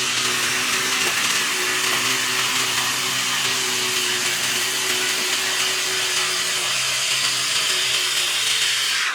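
A small machine running steadily: a motor hum under a loud, even hiss, which cuts off abruptly at the end.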